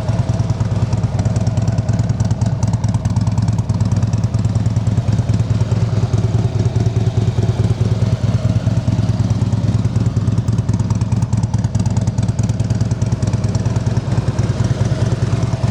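2014 Harley-Davidson Street Glide's 103 cubic inch V-twin idling steadily through Vance & Hines slip-on exhausts, a low, even rumble.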